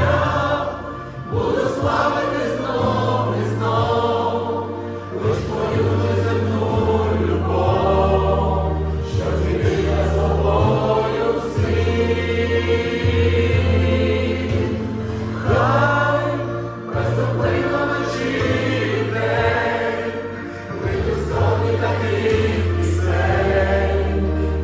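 Choir singing a Christian worship song over a steady bass accompaniment.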